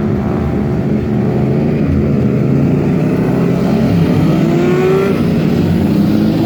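Loud motor vehicle engine running steadily, then revving up with a rising pitch about four to five seconds in.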